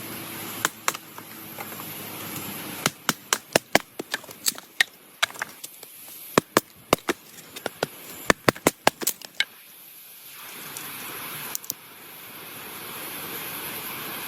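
A run of sharp, irregular cracks or knocks, bunched most thickly in the middle, over a steady hiss that drops away for a moment about ten seconds in.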